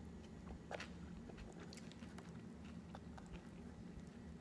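A person chewing food close to the microphone with the mouth closed: faint, scattered small crunches and moist clicks. A low steady hum runs underneath.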